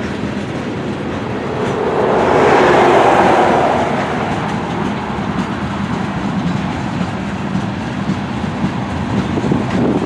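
Freight train cars rolling past: steel wheels clacking over the rail joints under a steady rumble, with a louder swell for a couple of seconds about two seconds in.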